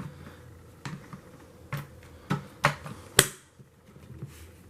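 Hard plastic clicks and knocks from a bagless vacuum's filter and bin being handled and fitted back in place, about six in all, the loudest a sharp snap just after three seconds in.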